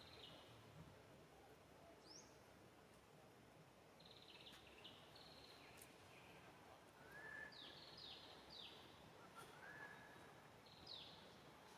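Faint forest ambience with birds calling: a few quick downward-sweeping chirps, buzzy notes and short whistles, more of them in the second half, over a steady low hiss.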